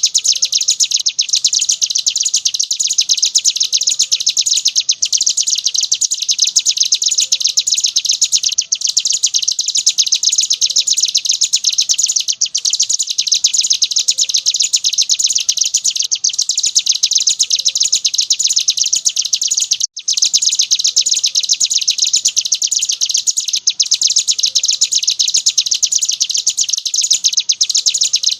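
Hill prinia (ciblek gunung) singing a continuous, very rapid, high-pitched trill in the 'ngebren' style, broken by brief pauses about every four seconds.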